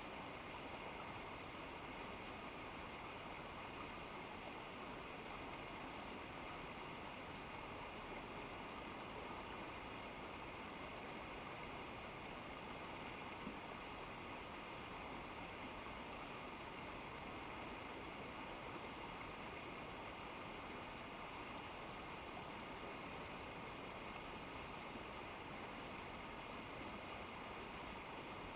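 Steady rushing of a mountain river, an even noise with no breaks.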